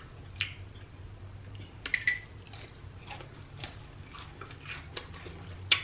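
A person chewing and crunching on breaded, deep-fried king crab leg: scattered crisp crunches and mouth clicks, with sharper ones about two seconds in and near the end.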